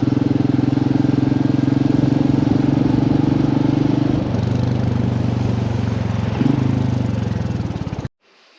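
Royal Enfield motorcycle engine running on the road, its note dropping about four seconds in as the bike eases off, with a short rise a couple of seconds later. The sound cuts off suddenly near the end.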